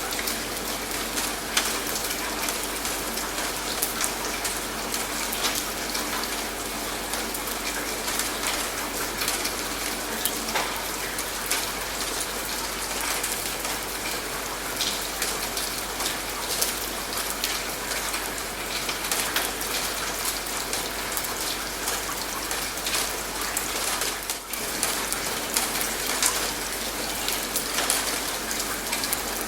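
Steady rain falling, with many separate drop hits heard through an even hiss. The sound dips for a moment about three-quarters of the way through.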